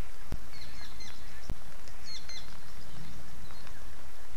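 Steady rain hiss with two sharp clicks, and a bird calling in clusters of short high chirps about half a second in and again about two seconds in.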